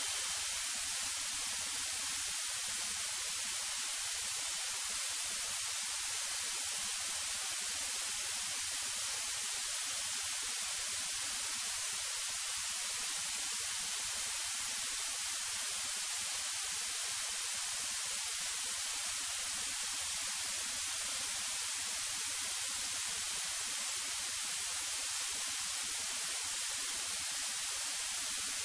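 Steady, even hiss with no changes, the background noise of a cockpit intercom audio feed while no one talks on it.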